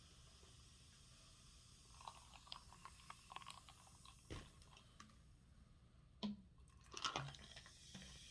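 Faint chewing of food, with small wet mouth clicks, then two short, louder sounds near the end.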